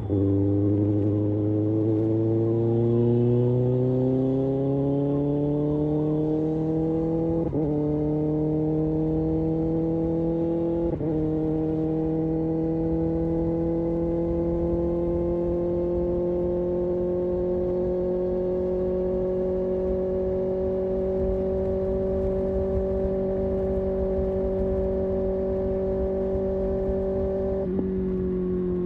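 Kawasaki Ninja ZX-6R's inline-four engine and exhaust pulling hard through the gears, its pitch climbing, with quick upshifts about 7 and 11 seconds in. It then holds a steady, slowly rising pitch at cruise, and the pitch drops suddenly near the end.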